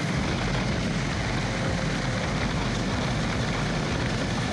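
Steady rush of wind and road noise with the low drone of a motorcycle engine, heard from a rider's microphone while riding.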